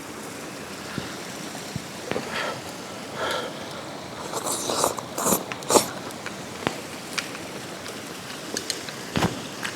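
Someone eating hot kimchi hotpot from a bowl: chewing and slurping, busiest about four to six seconds in, with scattered sharp clicks of utensils against the dish over a steady hiss.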